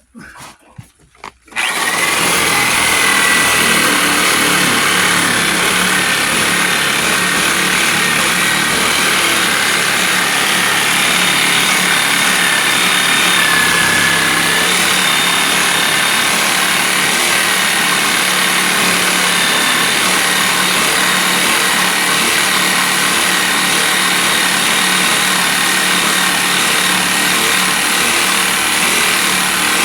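Corded reciprocating saw starting about a second and a half in, then cutting steadily without a break.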